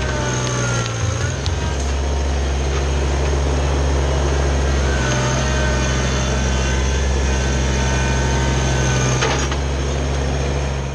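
Kubota BX compact tractor's diesel engine running steadily, with a faint whine that wavers in pitch now and then.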